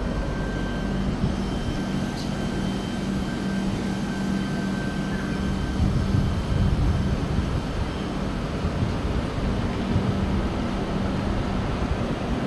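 Steady drone of the Howrah–New Delhi Duronto Express's air-conditioned coaches, a constant low hum with rumble beneath it.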